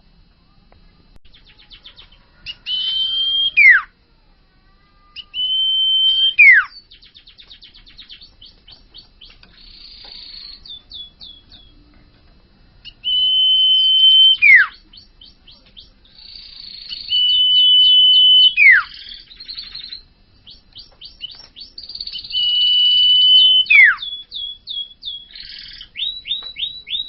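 Common iora singing: five long whistles, each held about a second and then sliding steeply down, between fast rattling trains of short high notes.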